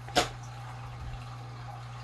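Watery '퐁당' slime being handled: one sharp wet pop just after the start, then a faint soft thud about a second in, over a steady low hum.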